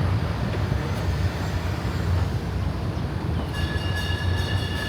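Tourist road train running along a street, heard from on board as a steady low rumble. About three and a half seconds in, a high steady squeal starts and holds.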